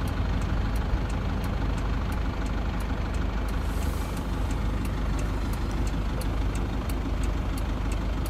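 Toyota Land Cruiser Prado's engine idling steadily, with a faint, even ticking over it.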